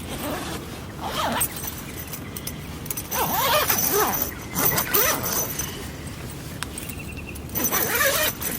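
A zipper being pulled open or shut in three rasping runs, the middle one the longest and loudest.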